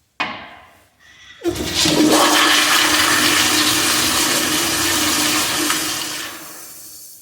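American Standard Madera toilet flushing. A short sharp sound comes first, then about a second later a loud rush of water with a steady low tone under it, which runs about five seconds and tails off near the end.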